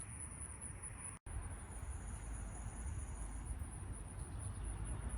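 Insects trilling steadily at a high pitch over a low rumble on the microphone. The sound cuts out completely for a moment about a second in.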